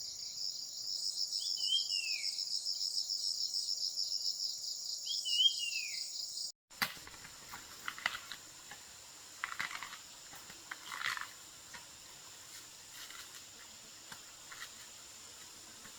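Loud insect chorus, a high, finely pulsing buzz, with two short falling bird calls over it. It cuts off abruptly about six seconds in, leaving a quieter background of scattered light rustles and taps.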